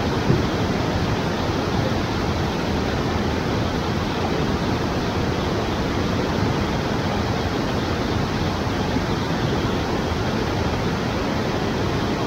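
Steady, unbroken rush of white water falling through river rapids.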